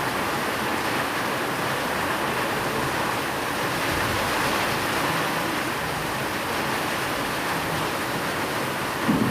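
Steady, even rain noise, with a low rumble of thunder breaking in right at the end.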